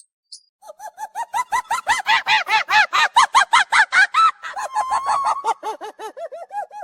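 A bird calling in a rapid run of short, repeated pitched notes, about ten a second, growing louder and then softer and lower in the second half.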